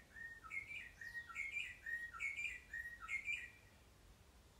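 A bird singing a quick phrase of short notes over and over, about twice a second, which stops about three and a half seconds in.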